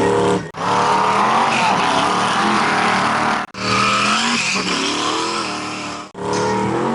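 Mega mud truck's engine running hard at high revs, its pitch rising and falling under throttle. The sound breaks off sharply three times.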